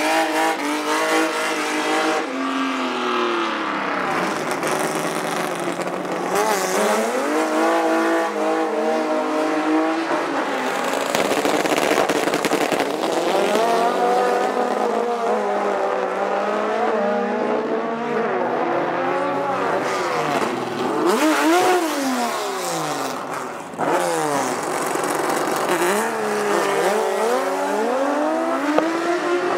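Big six-cylinder and V8 drag-racing cars, engines revving and accelerating hard. The pitch climbs and drops again and again across several runs.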